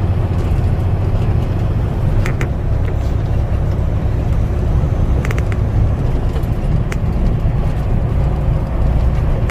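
Truck on the move: a steady low drone of engine and road noise, with a few short clicks or rattles.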